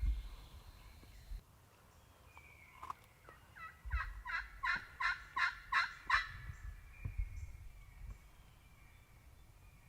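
Wild turkey calling: a run of about eight quick notes, each dropping in pitch, lasting two to three seconds. A low rumble sounds at the start, and a few low thumps come later.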